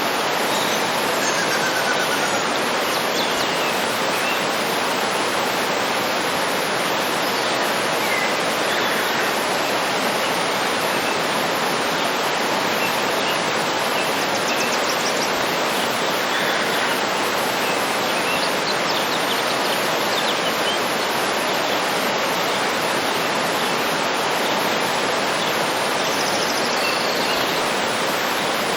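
Waterfall pouring steadily, a dense even rush of water, with faint bird chirps and short trills heard now and then above it.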